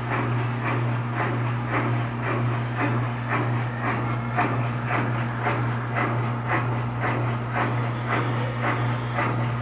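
Electrolux LTD13 13 kg washing machine spinning down after its final spin: a steady hum with a rhythmic swish about twice a second as the drum turns.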